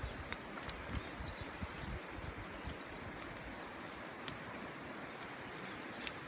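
Wood campfire crackling, with scattered sharp pops and snaps over a steady rushing background.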